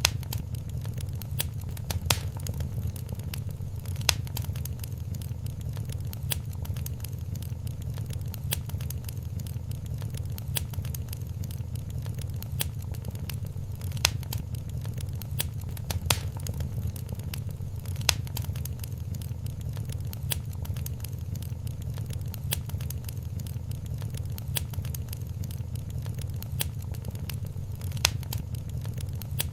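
Wood fire crackling in a fireplace: a steady low rumble of flames under frequent small crackles, with a few sharper pops scattered through.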